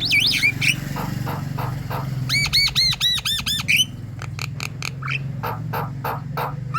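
Javan myna singing: quick looping whistles at first, a rapid run of arched whistles about two and a half seconds in, then a string of sharp clicking notes. A steady low hum runs underneath.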